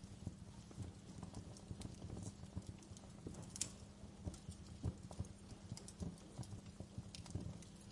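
Wood fire crackling: faint, irregular sharp pops and ticks over soft low knocks, with no steady rhythm.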